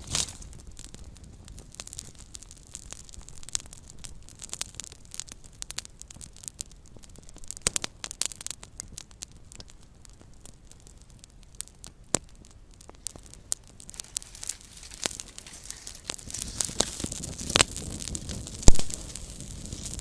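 Small wood fire crackling: irregular sharp pops and snaps over a soft hiss, busier in the last few seconds, with one loud pop near the end.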